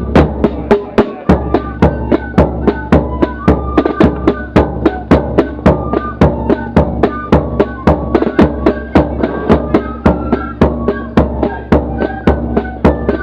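Corps of drums playing a march: flutes carry the melody over a steady, even drumbeat, heard from among the drummers, with the drums close and loud.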